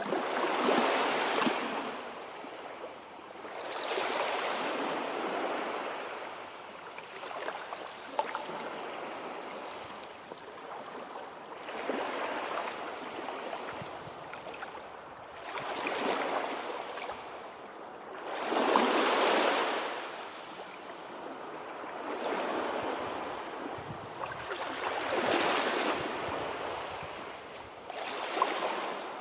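Sea waves washing onto the shore, the surf swelling and falling back about every three to four seconds.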